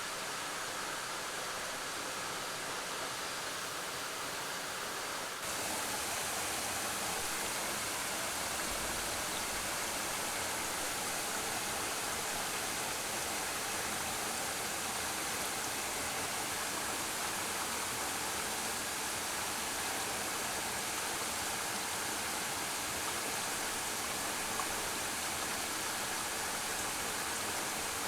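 Suok Falls waterfall, water pouring down in a steady rush. About five seconds in, the sound becomes slightly louder and brighter, then holds steady.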